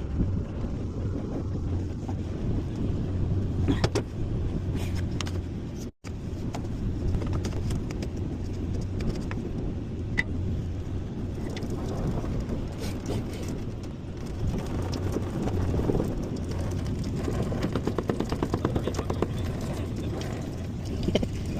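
Cummins diesel engine running steadily, a low rumble, with scattered light clicks and knocks.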